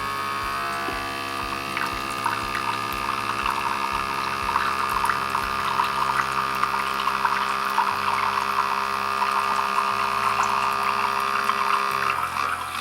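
Outin Nano portable electric espresso machine brewing: its small pump hums steadily while coffee spurts and pours out into the cup. The pump cuts off near the end.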